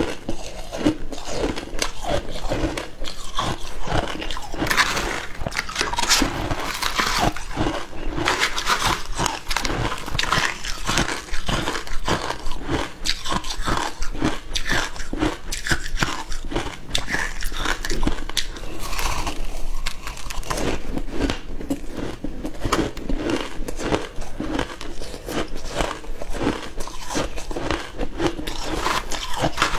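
Frozen matcha ice being bitten and chewed: a continuous run of crisp crunches and cracks as the ice breaks between the teeth.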